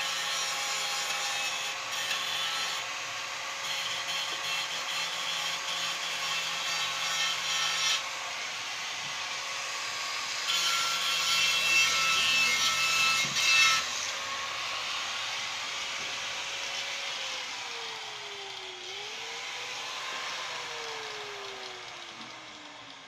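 A hand-held electric power tool runs with a steady whine while it scrapes against a surface, with uneven rasping. Later the contact stops and the tool winds down: its pitch falls, picks up briefly once, then falls again as it slows.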